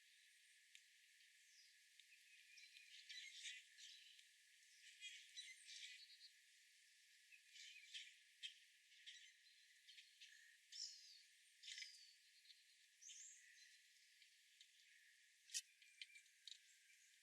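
Faint, scattered bird chirps and short calls, a few sliding in pitch, with a sharp click about two-thirds of the way through.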